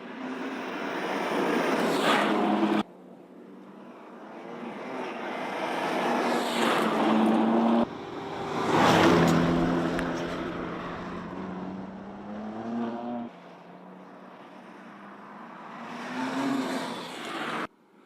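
Several short clips of the BMW M2 Competition's twin-turbocharged straight-six engine as the car drives and passes by. Each clip swells as the car closes in and is cut off abruptly, and in one, about eight seconds in, the engine note drops in pitch as the car goes past.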